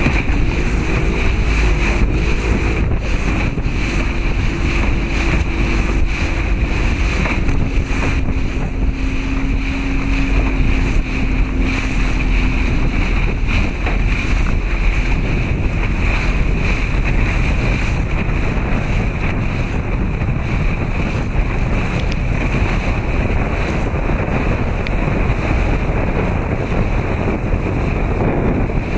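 Steady rushing noise of sea water and wind against the camcorder's microphone, with a faint steady hum through the first half.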